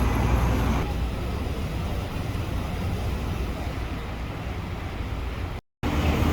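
Steady outdoor background noise with a low rumble and no distinct events, cutting briefly to silence near the end.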